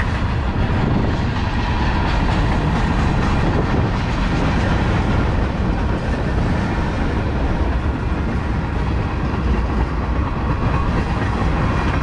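A BNSF freight train's tank cars and covered hoppers rolling steadily past close by, steel wheels running on the rails with faint clicks over the joints.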